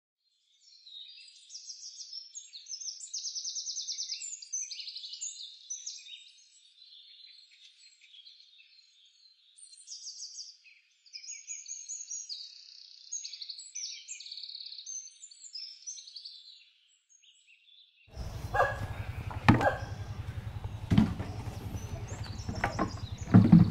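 Small birds chirping and twittering in quick repeated calls, with short pauses between groups. About 18 seconds in the sound changes to a steady low hum with several sharp knocks and thumps, the loudest near the end.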